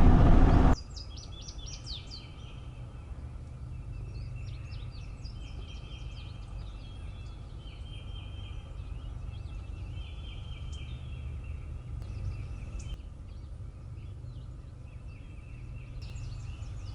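Loud vehicle cabin noise cuts off abruptly less than a second in. After it come repeated short songbird phrases over a steady low rumble.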